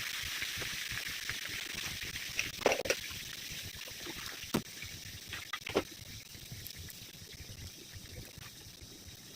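Food frying in a pan: a steady sizzle that slowly fades, with a few sharp clicks or pops.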